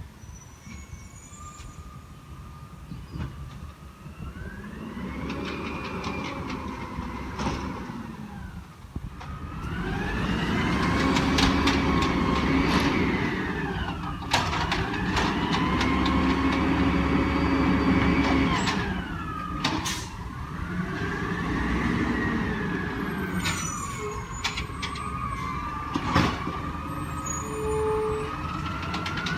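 Garbage truck's engine revving up, holding and dropping back several times, its pitch-following whine rising and falling with each rev as it powers the hydraulics, with sharp clanks and knocks among the revs.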